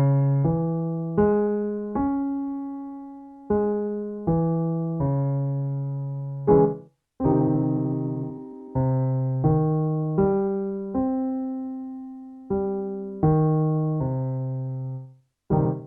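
Piano playing minor arpeggio patterns for a vocal warmup, each note struck and left to ring out, some held for a second or two.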